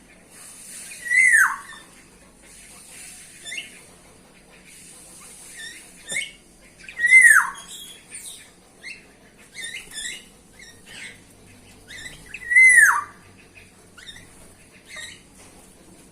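Bulbuls calling: three loud calls that fall in pitch, each about half a second long and some five to six seconds apart, with many short chirps between them.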